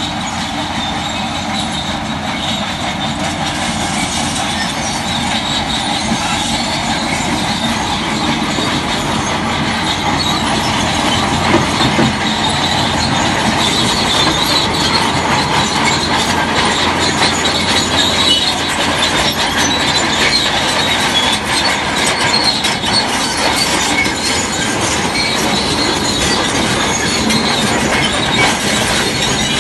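Shantui crawler bulldozer on the move: a steady engine with its steel tracks squealing and clattering, growing gradually louder.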